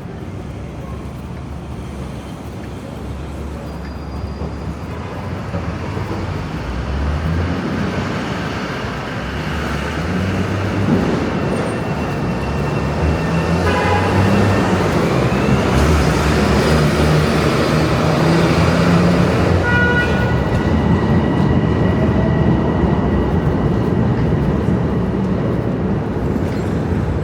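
City street traffic: a steady wash of vehicle engine and tyre noise that grows louder from about six seconds in as vehicles pass close, with a couple of brief high-pitched tones around the middle.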